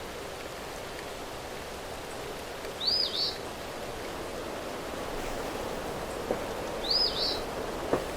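Steady rain noise, with a bird calling twice, a short two-note chirp about three seconds in and again about seven seconds in, louder than the rain. A few faint ticks of drops near the end.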